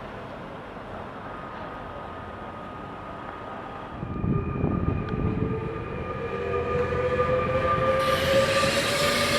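Electric train moving through the station: a rumble sets in about four seconds in, then a motor whine rises slowly in pitch, with hissing building near the end.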